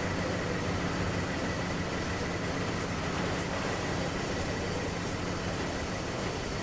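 Manifest freight train led by a GE U25B diesel locomotive passing. The locomotive's engine drone weakens over the first two seconds or so, leaving a steady rumble of rolling freight cars.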